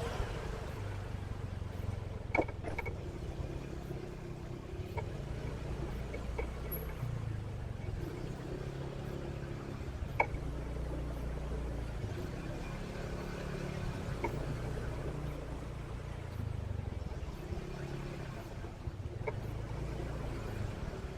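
Motorcycle engine running at low speed in city traffic, its pitch stepping up and down as the throttle changes, with a few sharp clicks.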